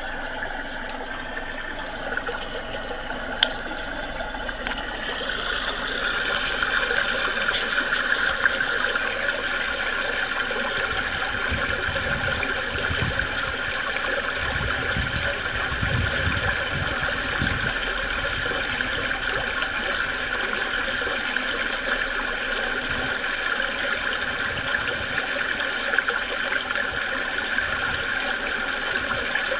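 A small creek babbling over stones: a steady rush of running water that swells a little about six seconds in. A few low rumbles come and go around the middle.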